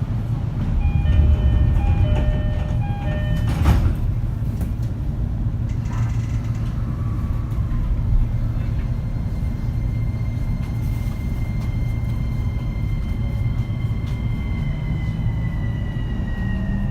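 Inside a JR East E231-series electric train: a short electronic chime of repeated tones, then a thud about four seconds in as the doors close. The VVVF inverter whine then starts as the train pulls away. The whine holds one tone at first, then drops in pitch near the end (the 'falling' inverter sound of the unrenewed cars), over a low running rumble.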